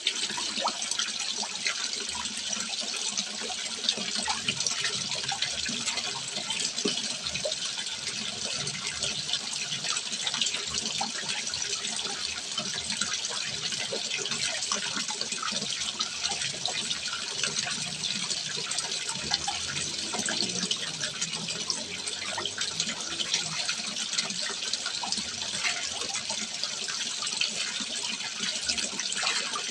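Water running and splashing steadily into a fish pond, a continuous trickling, splashing rush with many small droplet crackles.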